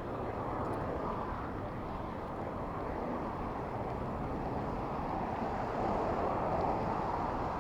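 Steady rushing road noise heard from a bicycle riding through city traffic, swelling a little about six seconds in.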